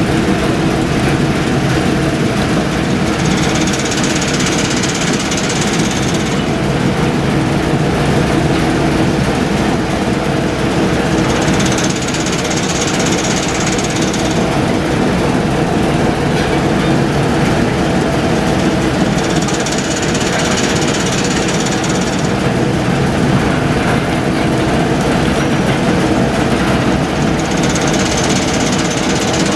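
Diesel locomotive engine running steadily at idle, with a higher hiss that comes and goes four times, each lasting two to three seconds.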